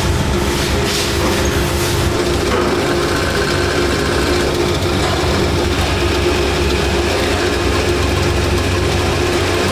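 Steady drone of running factory machinery: a low hum with a constant mid-pitched tone over it.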